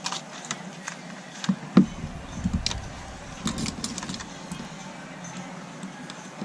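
Small clicks and taps of tools and parts being handled during a smartphone teardown, with one louder knock about two seconds in.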